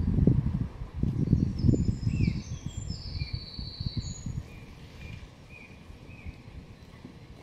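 Small songbirds chirping and trilling in short high phrases from about two seconds in, over a low, gusty rumble that fades away during the first four seconds.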